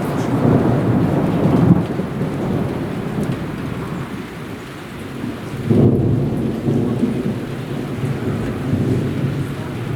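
Thunder rumbling over heavy rain, with a fresh peal rising sharply about six seconds in.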